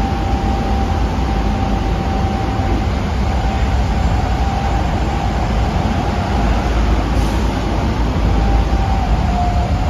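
Interior running sound of an Osaka Metro 23 series subway car with Hitachi IGBT-VVVF traction equipment: a heavy, steady rumble of wheels on rail with a thin, steady motor whine that drops slightly in pitch near the end.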